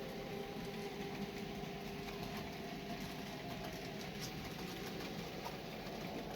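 N gauge model train running on the layout: a steady electric-motor hum with light wheel and track noise.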